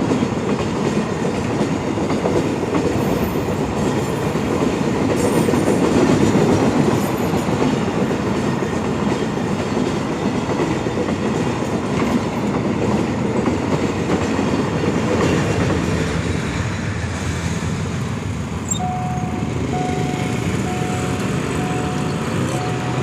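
Freight train wagons rolling past with a loud, continuous rumble and wheel clatter. Near the end the rumble eases and a level-crossing warning signal beeps about once a second.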